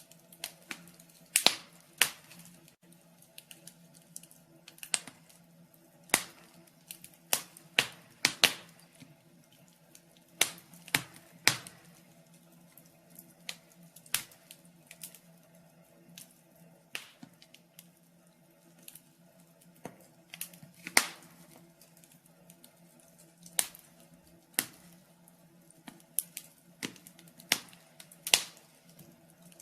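Burning firewood crackling, with irregular sharp pops and snaps, a few every couple of seconds, over a faint steady hum.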